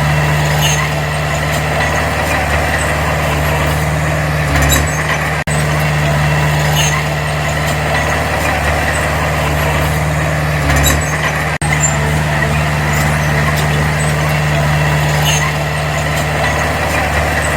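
Diesel engine of a small crawler bulldozer running steadily while working, with light metallic clinks about every two seconds.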